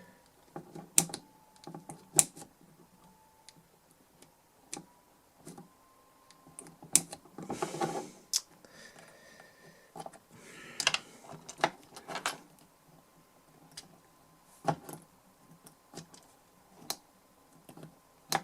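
Irregular sharp clicks and a couple of short scrapes of small hand tools working inside the opened DI box, clearing out leftover aluminium foil and paper debris.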